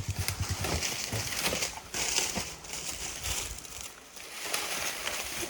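A motorcycle engine idling with even pulses, about ten a second, which stop about a second in. Irregular crunching and rustling with scattered clicks follow.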